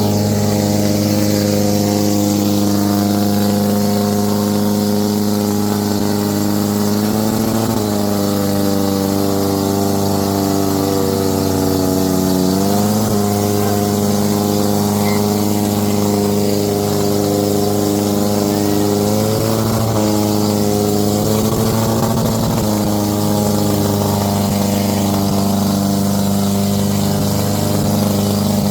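Tractor diesel engine running hard and steadily, its speed dipping and picking up again a few times.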